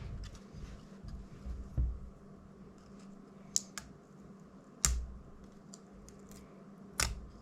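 Small sharp clicks and taps of tools and small plastic drone parts being handled during disassembly, a handful of them at irregular intervals, over a faint steady hum.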